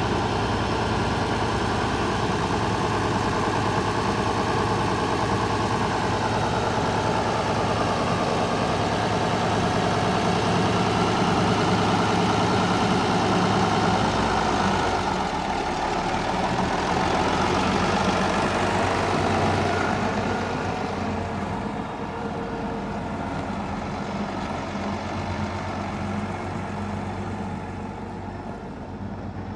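International Harvester 1086 tractor's turbocharged six-cylinder diesel engine running at a steady idle. Its sound shifts about halfway through and grows quieter over the last third.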